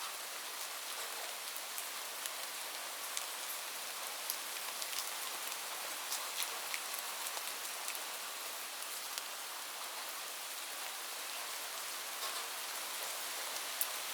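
Steady rain: a continuous hiss of falling rain with many separate drops ticking sharply on a hard surface.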